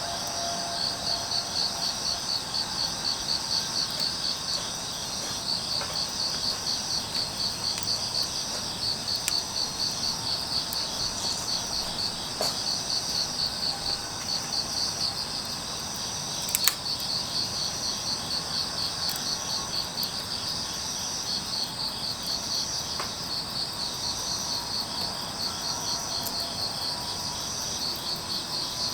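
Crickets and other grass insects chirping in a steady pulsing trill, with a few sharp crackles from a burning wood fire, the loudest a little past halfway.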